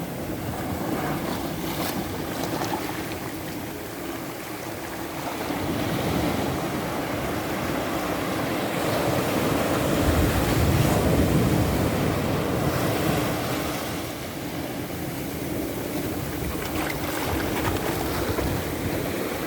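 Ocean surf: waves breaking and washing up the shore in a continuous rush that swells and fades, loudest about ten seconds in.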